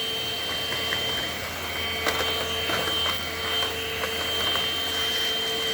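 INSE N-5 cordless stick vacuum running steadily on low speed, a constant motor whine with a low hum. Scattered small ticks come from leaves and pine needles being sucked up.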